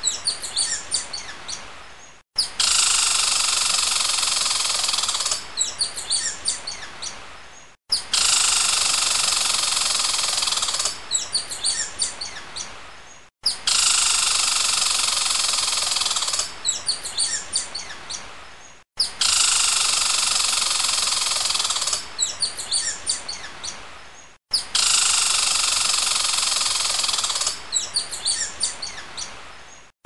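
Short recording of eastern bluebird calls played in a loop, repeating about every five and a half seconds. Each pass opens with a loud steady background hiss, followed by a string of short, high chirps, then cuts off abruptly.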